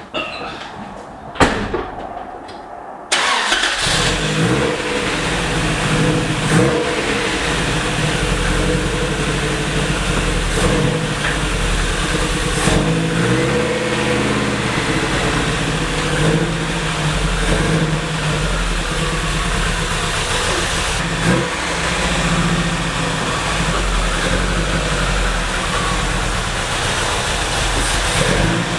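A sharp knock just over a second in, then about three seconds in a freshly swapped-in Toyota 22R four-cylinder engine comes in suddenly and runs steadily in the pickup. Its pitch rises and falls a little with the throttle.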